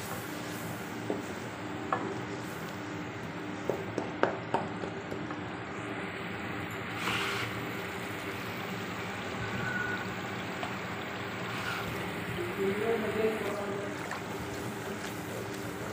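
Spiced masala frying in oil in an aluminium pot, sizzling steadily while a cooking spoon stirs and scrapes through it, with several sharp clicks of the spoon against the pot within the first five seconds.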